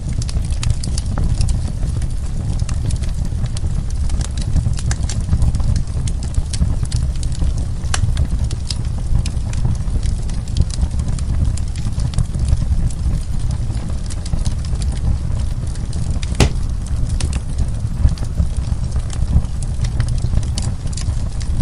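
Wood fire burning with a steady low rumble and many irregular sharp crackles and pops, one louder pop about two thirds of the way in.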